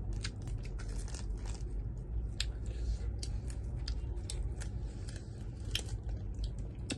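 Close-up eating sounds: a person chewing, with frequent irregular sharp clicks and smacks of the mouth and food, over a steady low hum.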